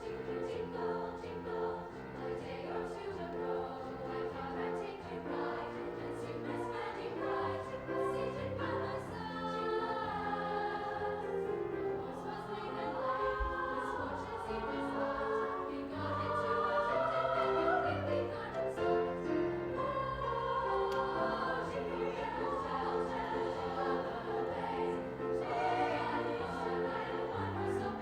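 High school choir singing a slow, sustained piece, growing somewhat louder past the middle.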